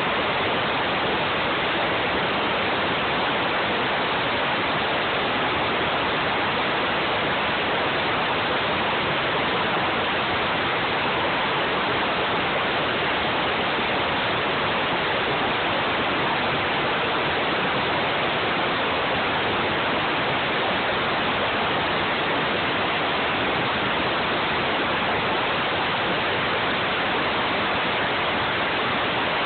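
An engine running at a steady speed on test, heard as a loud, even rush of noise with no clear pitch and no change throughout.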